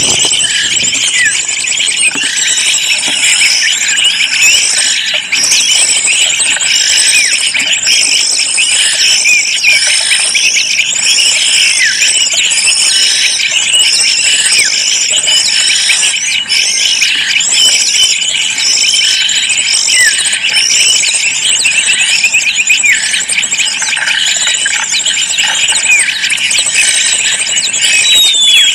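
Many small birds chirping and calling continuously in a dense chorus, with one call repeating a little faster than once a second through most of it.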